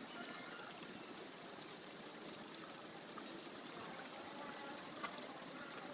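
Steady trickle of running water, with a few faint high bird chirps near the end.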